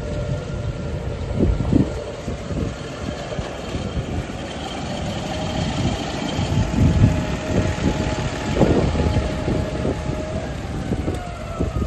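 New Holland T7-210 tractor's six-cylinder diesel engine running, its note steady and then falling in pitch near the end, with irregular low thumps.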